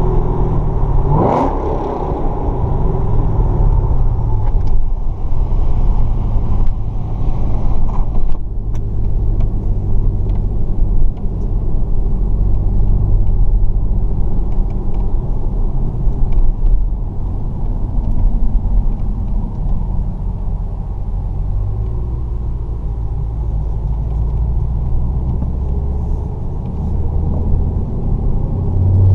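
Chevrolet Camaro ZL1's supercharged LSA V8, heard from inside the cabin, running steadily at cruising speed with road rumble. There is a brief whistle-like sweep about a second in, and the revs begin to climb near the end.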